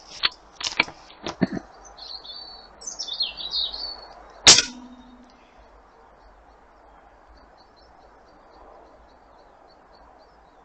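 A few sharp clicks, then birds chirping, then one loud, sharp crack with a brief ringing tone about four and a half seconds in. Faint, evenly spaced high ticks follow.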